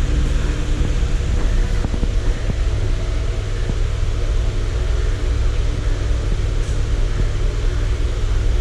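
Moving train: a loud, steady rumble with a faint steady hum running through it, unchanged throughout.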